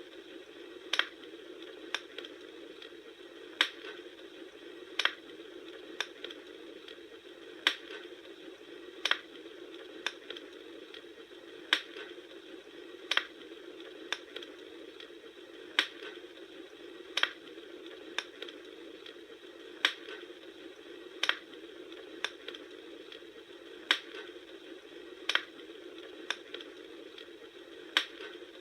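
Campfire crackling: a steady hiss with sharp pops at a strikingly even pace, about three every four seconds.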